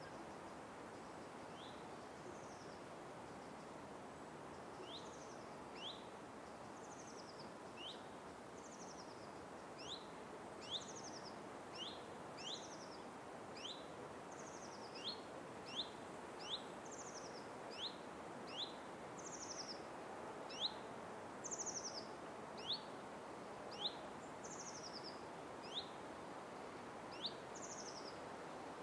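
Forest birds calling, with short sharp falling chirps and higher buzzy falling notes. They are sparse at first and come about once a second from around ten seconds in, over a steady rushing background noise.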